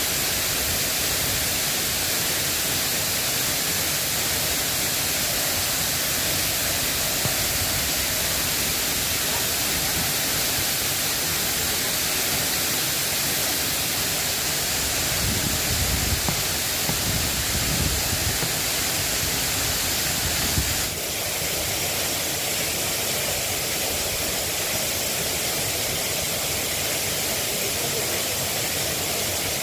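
Steady hiss of rain falling. A low rumble comes and goes for a few seconds around the middle, and the sound changes abruptly about two-thirds of the way through.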